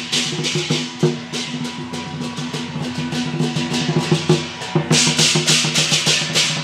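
Taiwanese temple procession percussion: rapid drum and wood-block strikes over steady ringing tones, with cymbals crashing in from about five seconds in.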